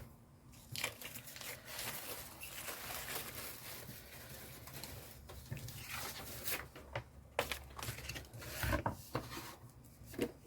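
Paper being handled on a craft table: rustling and crinkling, with scattered small taps and a few louder strokes near the end.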